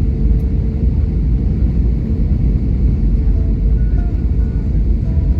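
Steady rumble of a passenger aircraft in flight, heard from inside the cabin, with a faint steady engine hum running through it.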